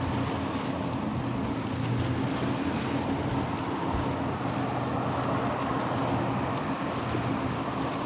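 Steady low hum of a distant engine under a continuous rush of wind and waves, with wind buffeting the microphone.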